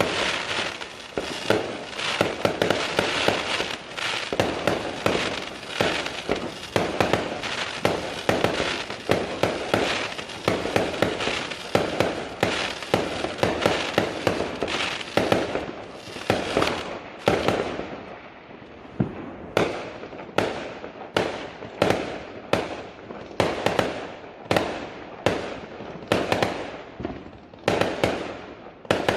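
Fireworks going off in rapid succession: a dense volley of bangs and crackling, then, from a little past the middle, a steadier run of separate bangs about two a second, each trailing off briefly.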